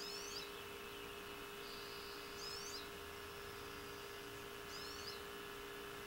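A small bird repeating a short, high, twittering phrase three times, about every two seconds, over a steady low hum.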